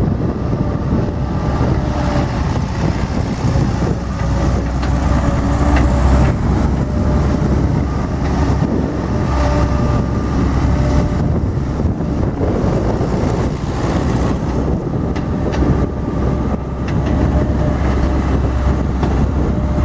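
John Deere 270 skid steer's diesel engine running steadily, with a faint whine that comes and goes and a few short clicks and knocks.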